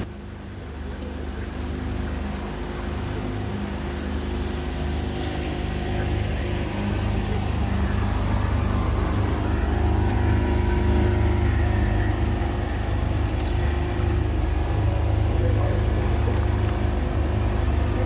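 Motorboat engine running steadily, growing louder over the first several seconds and then holding an even hum.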